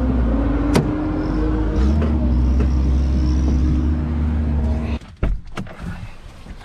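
A diesel lorry engine running steadily, then stopping abruptly about five seconds in, followed by a few light clicks.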